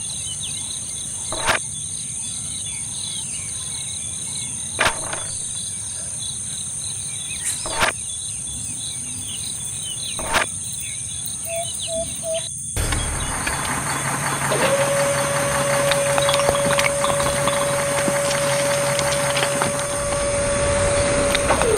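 Steady high insect drone with a few bird chirps and a sharp knock every few seconds. About halfway through, the sound cuts abruptly to a louder rushing noise, soon joined by a steady whine.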